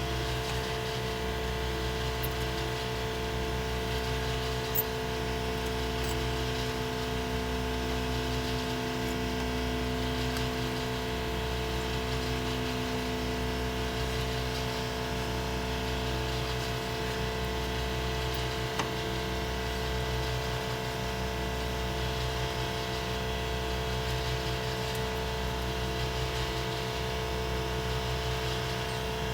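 A motor running with a steady, unchanging hum, with a couple of faint clicks.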